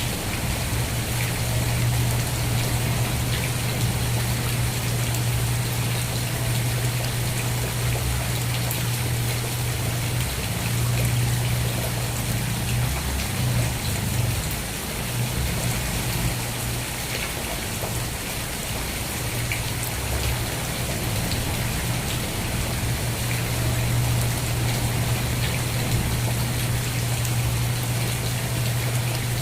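Steady rain falling and pattering on a surface, with a constant low hum underneath that wavers briefly about halfway through.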